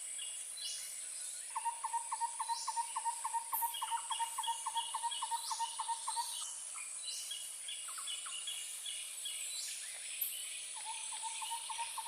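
Tropical rainforest ambience. A steady high insect drone runs throughout, and bouts of fast repeated calls come at about five a second, stopping around six seconds in and starting again near the end. Lighter chirps and short rising calls sound higher up.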